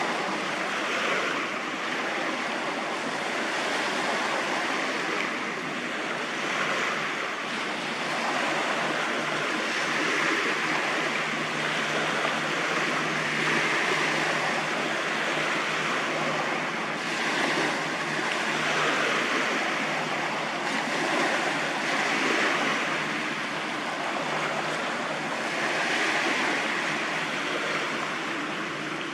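Rushing seawater and wave wash with some wind, swelling and easing every few seconds, over a faint steady low hum.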